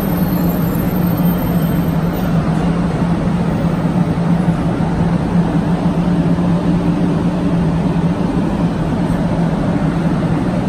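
Hello Kitty 500-series Shinkansen train at the platform: a loud, steady rumble with a low hum that neither rises nor falls much.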